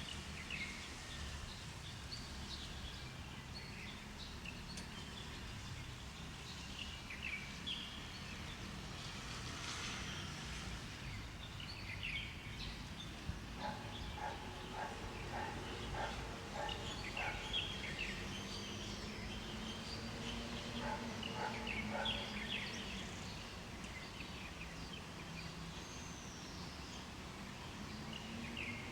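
Several birds chirping and trilling in short calls, with a quick run of evenly repeated lower notes about halfway through, over a steady low outdoor rumble.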